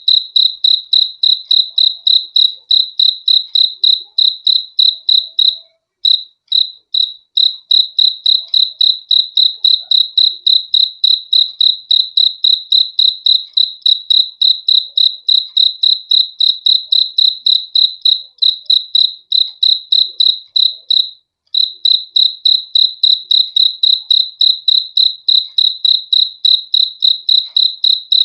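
A cricket chirping in a steady, even rhythm of about three to four high chirps a second, with a brief break about six seconds in and another near the end.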